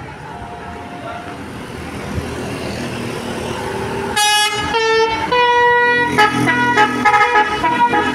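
A bus approaches with its engine noise rising. About four seconds in it sounds a loud multi-tone musical horn that jumps through a run of changing notes, the 'telolet' horn of an Indonesian bus.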